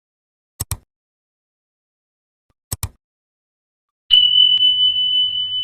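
Two sharp double clicks about two seconds apart, then a steady high-pitched electronic tone over a faint low hum, starting about four seconds in.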